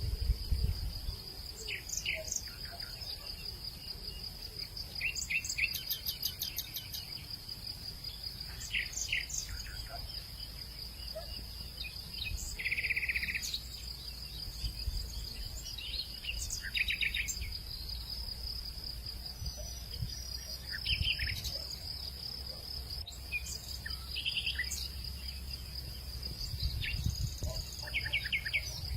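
Natural outdoor ambience: a steady, high-pitched insect drone, with birds calling every few seconds in short runs of quick repeated chirps, over a low rumble.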